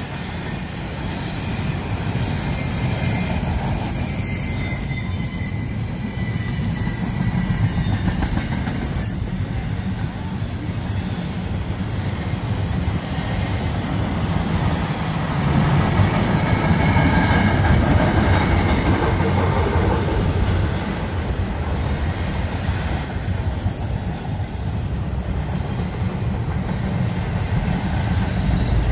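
Long BNSF freight train of empty cars rolling across a bridge: a continuous low rumble of wheels on rail with high, thin wheel squeal over it. It gets louder about halfway through.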